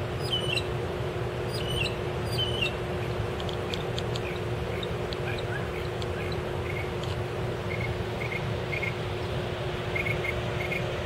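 Small birds chirping repeatedly in short high calls over a steady rushing noise and a low steady hum.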